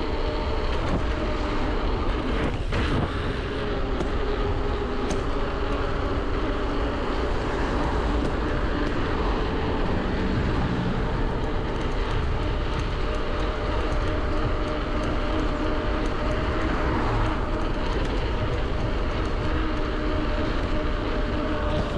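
Electric bike on the move: a steady whine from its Bafang BBSHD mid-drive motor over a constant rumble of wind and tyre noise.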